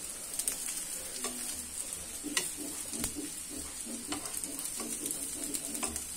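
Oil sizzling steadily under pieces of masoor dal snack shallow-frying in a nonstick pan, with scattered clicks and scrapes of steel tongs against the pan as the pieces are turned.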